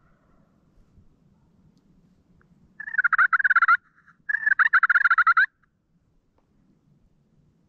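Wild turkey gobbling twice in quick succession, each gobble a rapid rattling call about a second long, loud and close.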